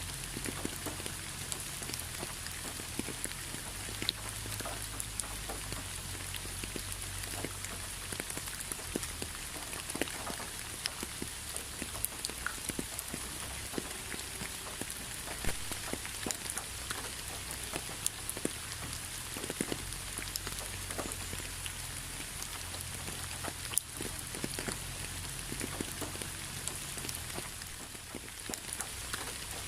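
Steady rain falling, with many separate drops tapping sharply on a surface over an even hiss and a low rumble underneath.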